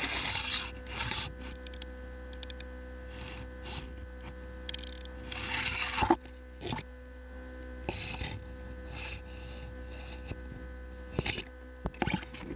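Irregular rustling and scraping with several sharp clicks, over a steady electrical hum.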